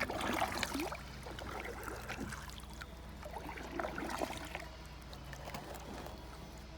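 Kayak paddle strokes in shallow water: scattered small splashes, drips and gurgles, over a faint steady low hum.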